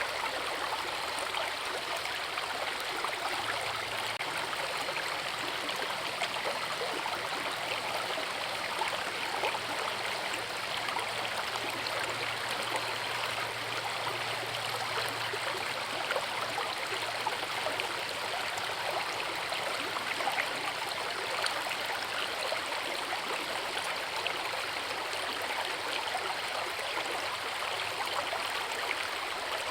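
Forest river flowing: a steady rush of water, dense with fine splashing.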